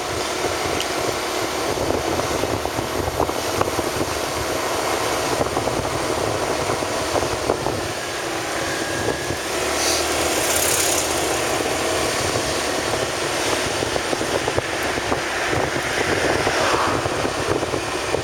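Motorcycle running steadily while being ridden, with a short hiss about ten seconds in.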